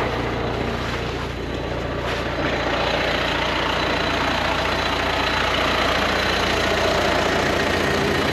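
A vehicle engine running steadily with a low hum, getting a little louder about two and a half seconds in.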